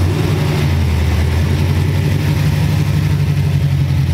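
Chevrolet Chevelle's engine running steadily at low revs as the car rolls slowly past at close range.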